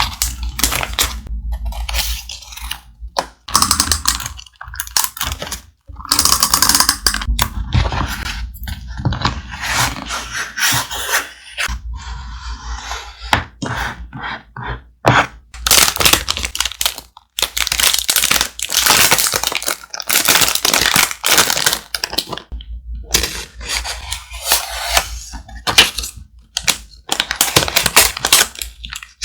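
Thick, heavy paper being handled for collage: crackling, crinkling and rubbing in irregular bursts, with scrapes and soft knocks.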